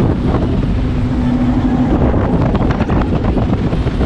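Jet boat under way, its twin Chevy big-block V8 engines running under a rush of water, with wind buffeting the microphone. A steady hum stands out for about a second, a little way in.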